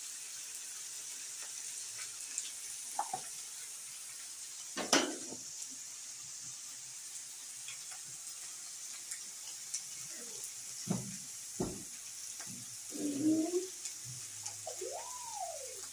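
Minced meat, carrots and herbs sizzling steadily in a frying pan on a gas stove, with a few clinks and knocks of a spoon against pan and cup, the loudest about five seconds in. Near the end there are a couple of short voice-like sounds, one rising and falling in pitch.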